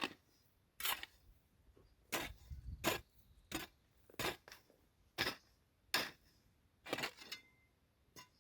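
Hand tool scraping and chopping at dirt ground in short, repeated strokes, roughly one a second, clearing and levelling the soil.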